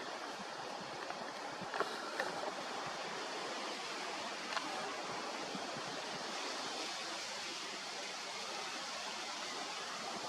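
Steady rushing outdoor noise, with a few faint clicks about two seconds in and again a little before the middle.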